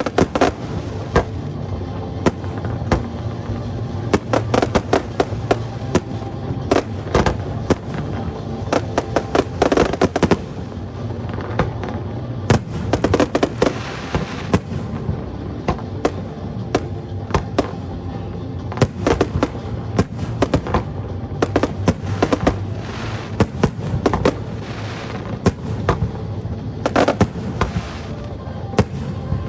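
Aerial fireworks bursting in an irregular string of sharp bangs and crackles, with dense volleys of rapid bursts about nine seconds in, around thirteen seconds, and again near the end.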